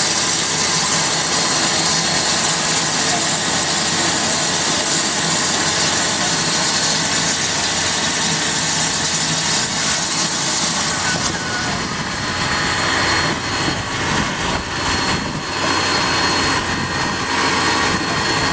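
Lehigh Valley Coal Company 126, an 0-6-0 tank steam locomotive, releasing a steady loud rush of steam that eases off about eleven seconds in.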